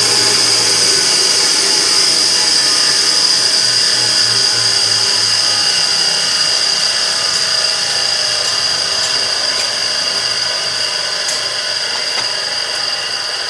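Immersion tube burner running with an abnormal noise: a steady high-pitched whine over a dense mechanical hum. A low pulsing fades out about halfway through, and the whole sound slowly gets quieter.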